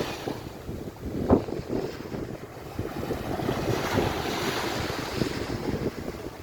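Wind buffeting the microphone over the wash of surf, with one brief louder bump about a second in.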